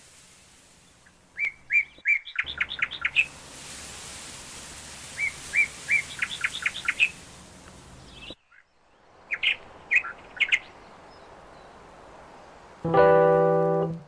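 A songbird singing three short phrases, each a few separate notes running into a quick series of chirps, over a faint hiss. Keyboard music comes in near the end.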